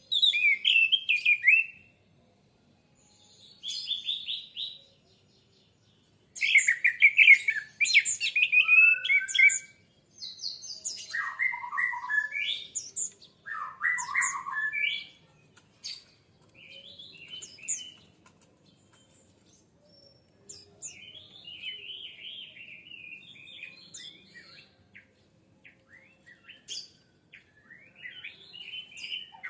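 Orange-headed thrush (anis merah) singing. Loud, varied whistled phrases come with short pauses between them, and in the second half the song turns to softer, run-on twittering.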